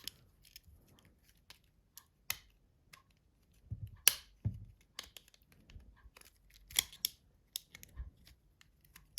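Small plastic clicks and taps as a mobile phone's housing and keypad parts are handled and pried apart, scattered and irregular, with a sharper snap about four seconds in.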